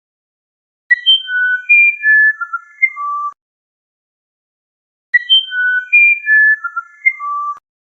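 A songbird singing a phrase of about eight clear, pure whistled notes that step mostly downward in pitch. The phrase is sung twice, about four seconds apart, and each time it cuts off abruptly.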